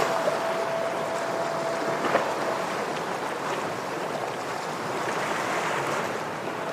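Ocean waves washing against shoreline rocks, a steady surf rush with no break. A thin, steady high tone sounds over it until about two seconds in.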